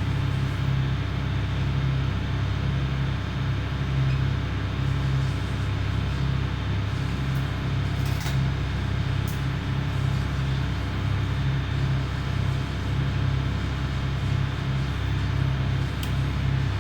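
A tugboat's diesel engine running steadily under way: a constant low drone with a slight pulsing beat.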